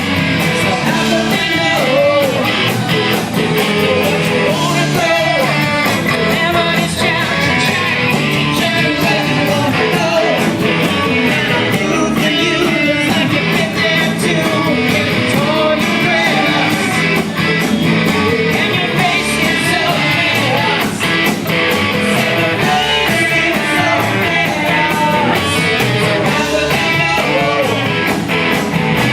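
Rock band playing live, with electric guitars, drums and a singer over a steady beat.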